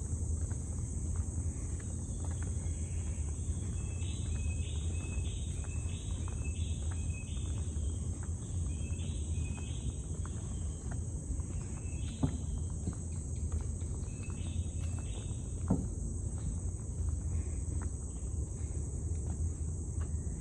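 Insects trilling as a steady high drone, with runs of short chirps repeated about twice a second, over a low steady rumble.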